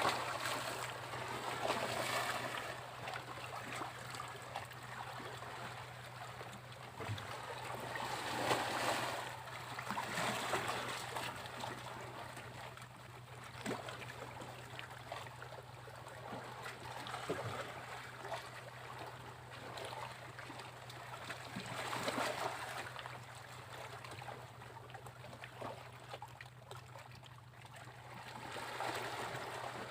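Sea waves breaking on a beach, the rush of surf swelling and falling away every few seconds, with the biggest surges near the start, about a third of the way in, past the middle, and near the end.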